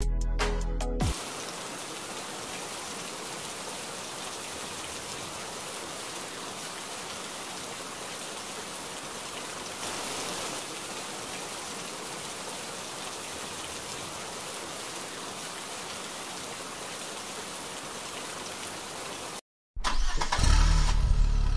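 A steady hiss of water spraying onto a plastic toy car. About a second and a half before the end it cuts to silence for a moment, and a louder, lower engine-like rumble follows.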